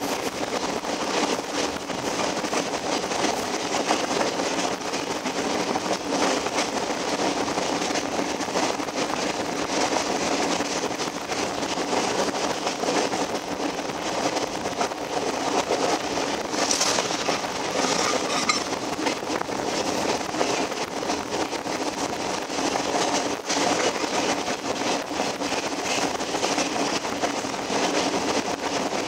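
Alaska Railroad passenger train rolling along at speed: a steady noise of wheels running on the rails, with a brief higher hiss about two-thirds of the way through.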